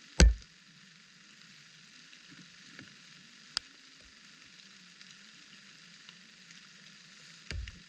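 Steady hiss of rain falling, with a loud low thump right at the start, a sharp tick midway and another low thump near the end.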